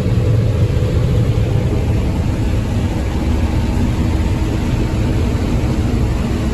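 Combine harvester running steadily: a loud, even engine drone with a low hum.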